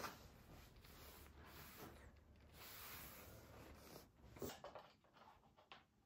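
Near silence: faint room tone with a few soft clicks or knocks, the clearest about four and a half seconds in.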